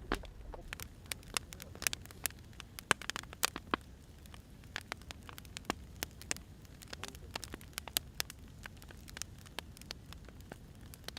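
Firewood fire crackling: irregular sharp pops and snaps, some louder than others, over a low steady hiss.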